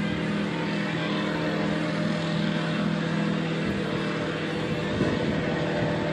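Gyroplane engine and propeller running at a steady, even pitch in flight.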